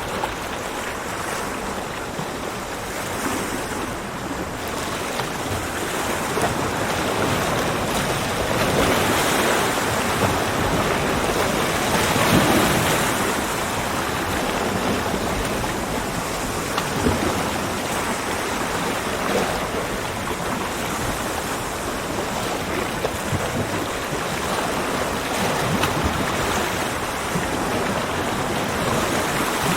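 Ocean waves breaking and washing on a beach: a continuous surf wash that swells and eases, building to a louder break about a third of the way in.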